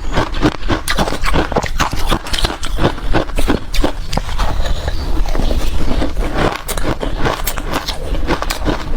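Ice being bitten and chewed, a dense, continuous run of sharp crunches and cracks.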